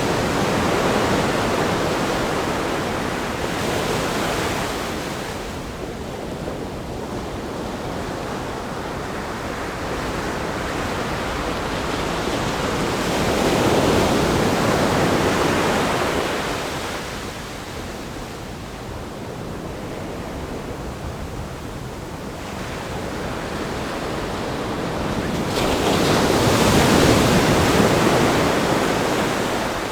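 Ocean waves breaking on a rock groin and washing up the beach, the surf rising and falling in three big surges, the loudest near the end.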